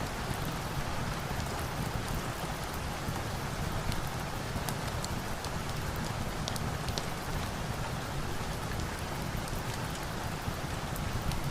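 Steady rain falling, an even hiss with scattered sharp high ticks.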